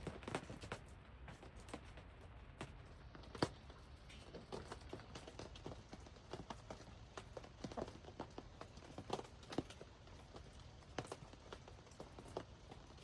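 Irregular light taps and clicks, a few a second, over a faint steady hiss: rain dripping and tapping on a surface.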